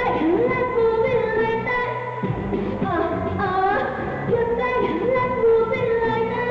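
A woman singing a pop song live over backing music, with held, sliding notes.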